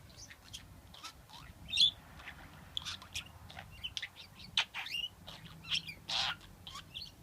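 Pet budgerigar chattering: a quick, irregular run of short high chirps and squeaks, a few of them louder.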